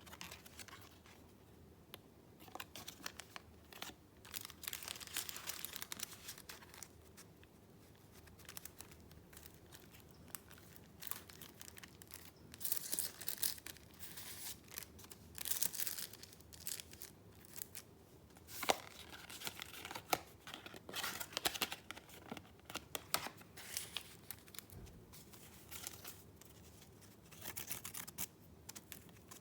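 Paper being handled: irregular bursts of rustling and crinkling, with a few sharp clicks about two-thirds of the way through.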